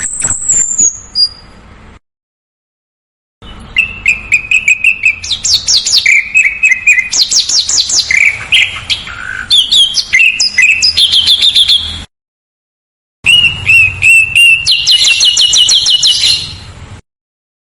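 Recorded songbird song in spliced segments: rapid rattling trills and sharp repeated chirps, with abrupt cuts to dead silence about two seconds in and again about twelve seconds in.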